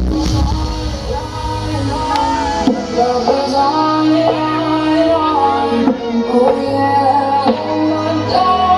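Music with a singing voice over heavy bass notes, played loud through Blizzard Audio's large 'horeg' sound-system rig during a sound check.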